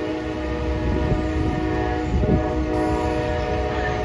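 Amtrak passenger train's locomotive horn sounding a long, steady chord of several tones at once, over the low rumble of the train.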